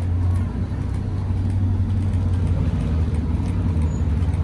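Bugatti Chiron Super Sport 300+'s quad-turbo W16 engine running with a steady, deep drone.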